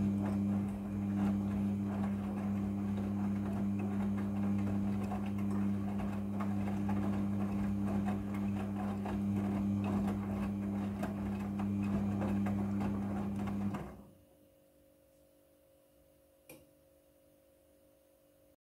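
A small electric motor running steadily with a low hum and a light rattle, then switching off about 14 seconds in; a single click a few seconds later.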